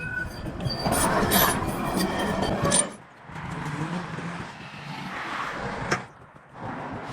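Road traffic: motor vehicles passing close by one after another. The loudest pass swells from the start and drops away suddenly about three seconds in, a second follows with a steady low engine hum, and a third comes near the end.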